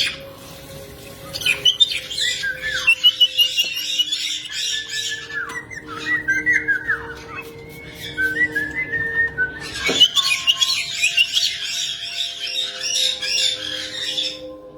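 Pet parrot chattering in rapid high chirps, with a few downward-sliding whistles in the middle, then a second burst of chattering after a sharp click about ten seconds in.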